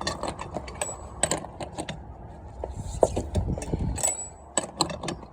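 Metal hand tools clinking and clattering, rapid irregular clicks with a couple of short high metallic rings.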